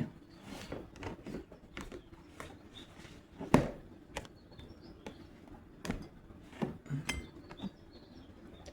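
Handling of reading cards and their guidebook: scattered light clicks and taps, with a sharper knock about three and a half seconds in and a few more around six to seven seconds.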